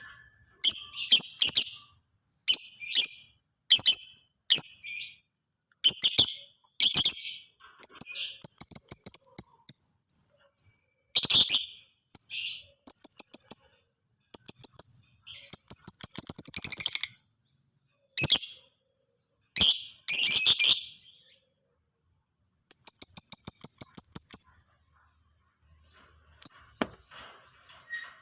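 Lovebird singing: loud, high chirps and rapid chattering in short repeated bursts, with a couple of brief pauses about three-quarters of the way through.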